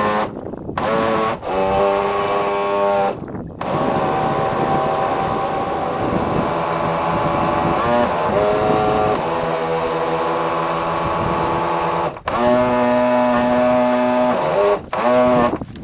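Motorboat engine running at changing speeds, its pitch holding, then stepping up and down, and cutting out abruptly four times: briefly near the start, at about three seconds, and twice near the end.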